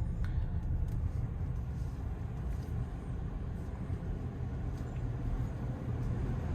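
Steady low rumble of a car heard from inside its cabin as it idles and creeps forward slowly, with a few faint ticks.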